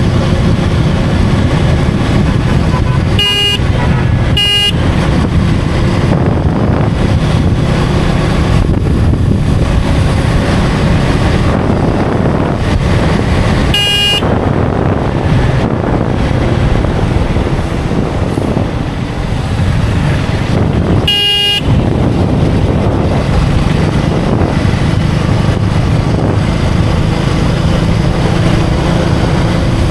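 KTM Duke 250's single-cylinder engine running under way with wind rushing past the helmet, and four short horn beeps: two close together a few seconds in, one near the middle and one about two-thirds through.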